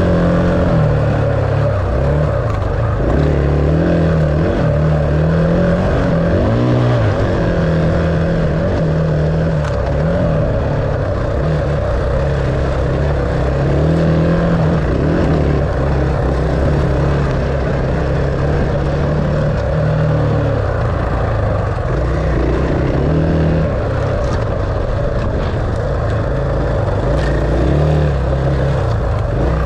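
Dirt bike engine running under load, its pitch rising and falling in steps as the throttle opens and closes and the gears change.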